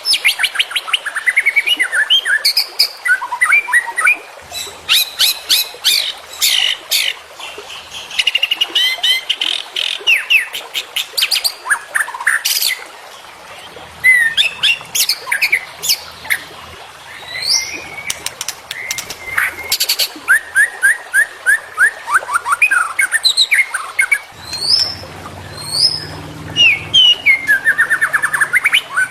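White-rumped shama (murai batu) singing a continuous, varied song of sweeping whistles, trills and rapid runs of sharp repeated notes, packed with fill-in phrases; it is a masteran recording used to train cage birds.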